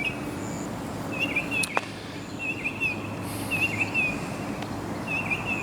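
A songbird singing short warbling phrases, repeated every second or so, over a steady low hum, with a single sharp click about a second and a half in.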